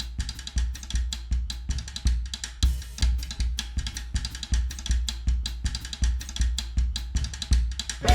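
Music of drums alone: a drum kit playing a steady, busy beat of bass-drum thumps and snare hits.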